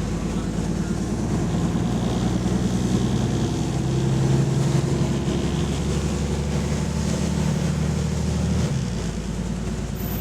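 Diesel engine of a double-decker bus running under way, with an exhaust leak. It pulls harder about four seconds in and eases off shortly before the end.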